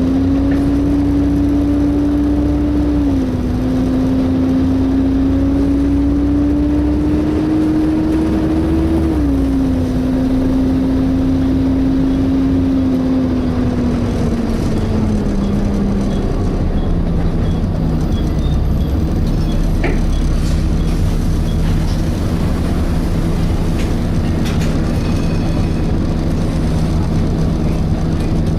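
Volvo B7TL double-decker bus's drivetrain and hydraulic cooling fan running with a steady whine, heard from inside. The whine climbs slowly and drops sharply twice as the gearbox changes up, then falls away as the bus slows and settles into a lower steady hum.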